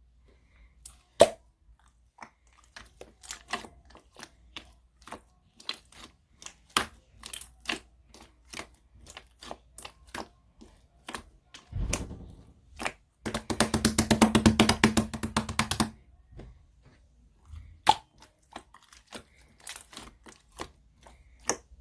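Chewy slime being squished and poked by hand, making sharp sticky clicks and pops, with a dense run of rapid crackling pops from about 13 to 16 seconds in.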